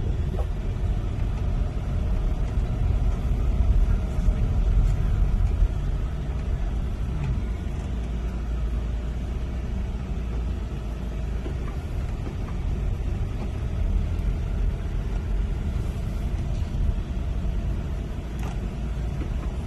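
Steady low engine rumble of a moving vehicle, with no words over it.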